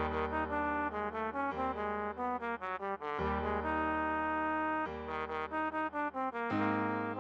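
Trombone playing a pop-song melody in quick short notes with a few held ones, over an accompaniment with a steady bass line.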